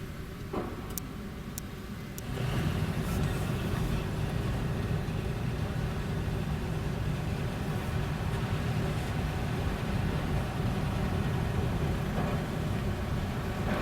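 Car being driven, with a steady low rumble of engine and tyres that grows clearly louder about two seconds in and then holds. A faint click or two comes in the first second.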